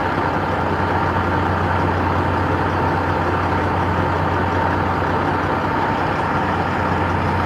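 Steady drone of an idling diesel truck engine, with a thin steady whine above it and no change throughout.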